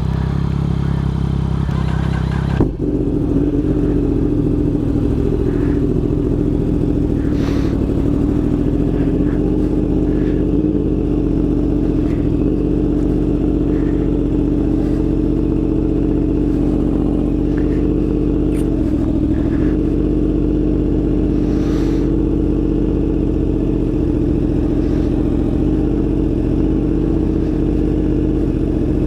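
Motorcycle engine idling steadily, with a single short knock about two and a half seconds in.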